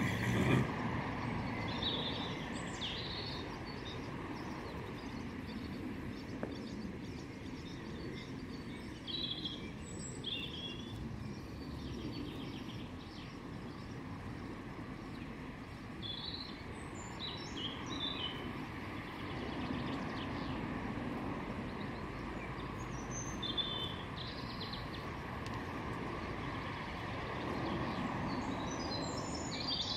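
Steady outdoor background noise with small birds chirping now and then in short bursts.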